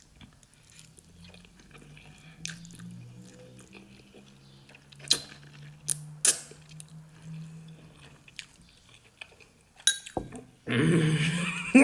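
A man chewing a mouthful of hot and spicy noodles, with a faint low hum and a few sharp clicks of mouth and utensils. A loud, breathy vocal sound comes near the end.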